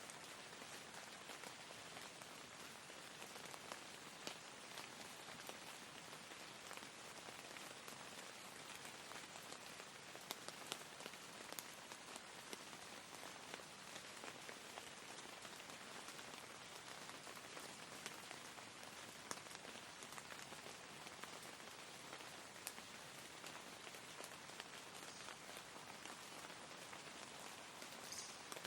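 Steady rain falling: a soft, even hiss with scattered individual drops tapping.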